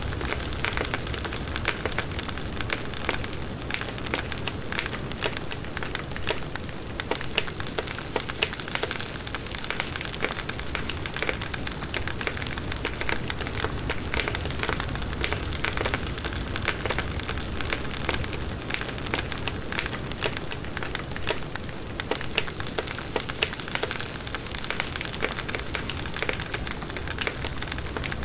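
Firewood burning in a campfire, crackling and popping continuously over a steady hiss of flame.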